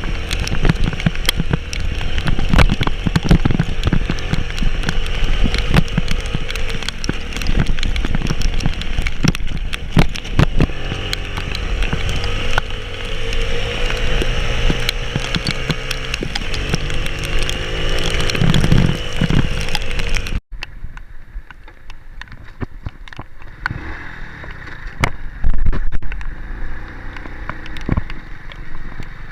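A motor vehicle's engine labouring on a rough road, rising and falling in pitch, with many knocks and rattles throughout. It cuts off suddenly about two-thirds of the way through, and a quieter engine-and-road noise follows.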